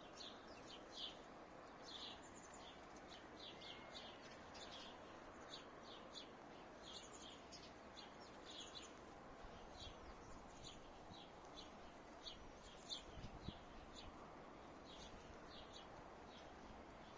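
Faint, high, short bird chirps repeating irregularly over a quiet outdoor hush, with a few soft low thumps about thirteen seconds in.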